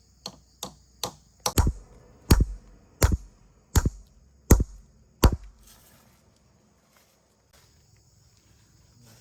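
About ten sharp blows of a hand tool striking wood, roughly one every 0.7 seconds and growing louder over about five seconds, then stopping.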